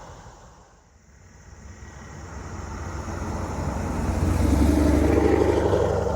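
A car driving in along the road, its engine growing louder as it approaches and loudest near the end as it draws level.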